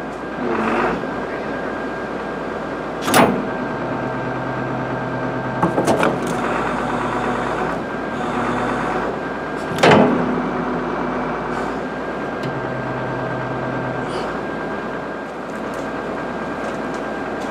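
Link-Belt excavator running steadily while its hydraulic thumb is worked to crush a frozen water bottle. Sharp metallic knocks about three seconds in and again near ten seconds, with a quick rattle of clicks around six seconds.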